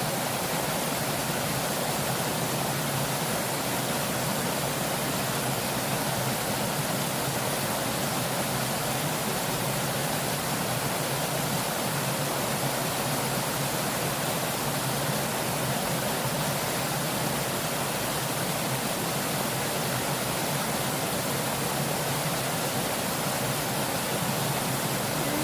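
Fast-flowing river water rushing steadily, an even hiss with no change in level.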